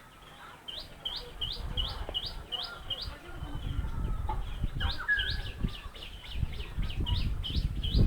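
A bird calling over and over in short rising chirps, about three a second, in two runs with a pause near the middle. Under it, a low gusty rumble of wind on the microphone builds from about a second and a half in.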